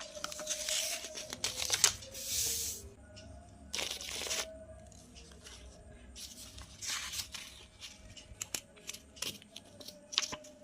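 Paper being torn and handled in a series of short, irregular rustling tears and crinkles, the loudest in the first couple of seconds and again about four seconds in.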